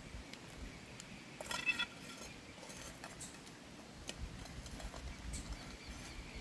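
Scattered light clicks and knocks, with a brief ringing metallic clink about one and a half seconds in, over a faint steady hiss.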